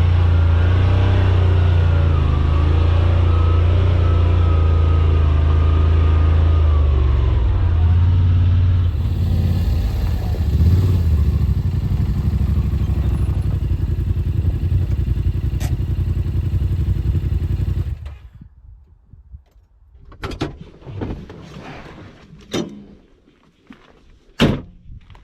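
Side-by-side UTV engine running steadily under load on a steep climb in four-wheel-drive low, then going quiet abruptly about 18 seconds in. A few sharp knocks and clicks follow near the end.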